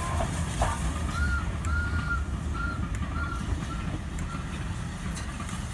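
A bird calls a quick run of about six short arched notes, about one to three seconds in, over a steady low rumble.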